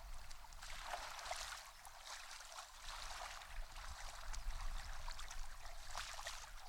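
Shallow seawater lapping and trickling faintly, with small splashes and ticks.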